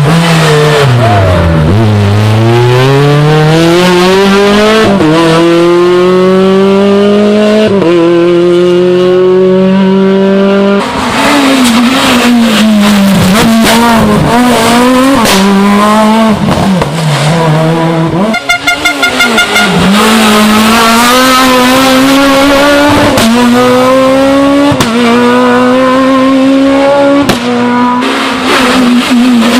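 Rally car engines at full throttle on a special stage, revving hard. Pitch falls under braking and downshifts, then climbs up through the gears in steps, with quick drops at each shift, a brief sputter about two-thirds of the way in, and some tyre squeal.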